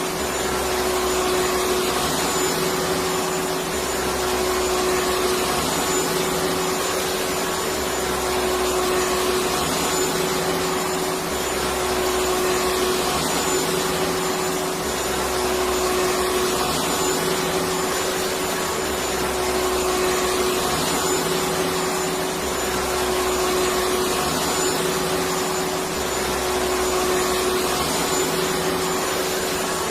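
Electric vacuum cleaner running steadily: an even rushing hiss with a steady whine, and a low hum that swells and fades about every three and a half seconds.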